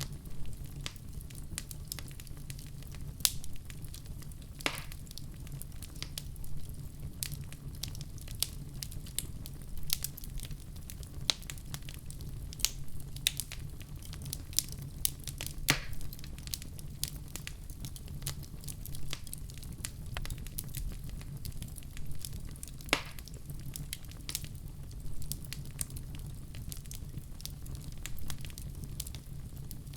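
Wood fire crackling in a fireplace: frequent small sharp snaps and a few louder pops over a steady low rumble.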